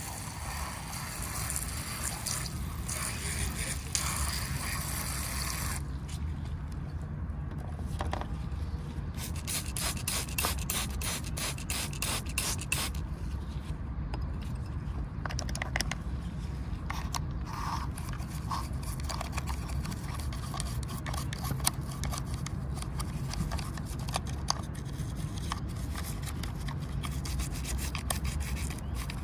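Scraping and rubbing on a miniature toy car as dried mud is cleaned off it, in many short strokes. A hissing spray fills roughly the first six seconds, over a steady low hum.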